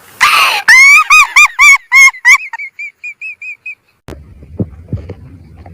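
A bird giving a rapid series of about fifteen short honk-like calls, about five a second, each rising and falling in pitch, the later ones fading away; they follow a brief noisy burst. About four seconds in the sound cuts to a faint low rumble with a few soft knocks.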